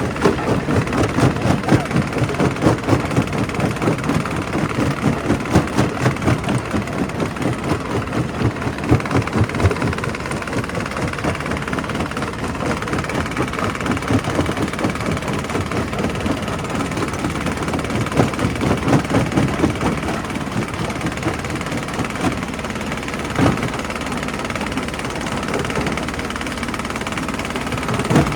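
Primary rock crusher running under load: a steady heavy machine drone with a fast, rough pulsing of rock being crushed, heavier for the first ten seconds or so and evener after, with a single sharp knock near the end.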